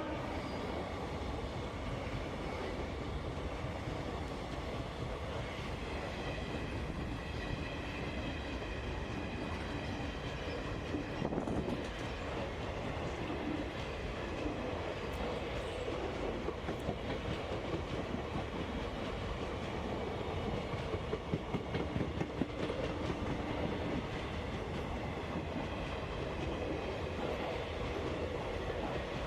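Indian Railways freight train rolling past, a steady rumble of wagons with the wheels clattering over the rail joints.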